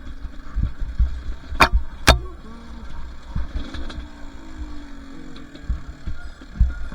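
Two-stroke dirt bike engine running on a trail, its pitch drifting up and down with the throttle. Two sharp knocks come about a second and a half and two seconds in.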